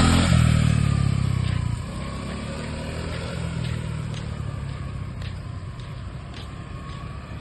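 Small motorcycle engine pulling away under throttle, loud at first, then dropping in level about two seconds in and running on more quietly as the bike rolls along.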